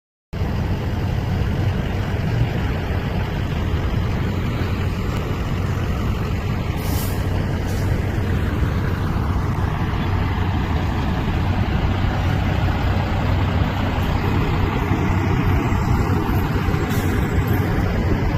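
Steady rumble of a moving vehicle, with a constant low hum and even road noise that does not change.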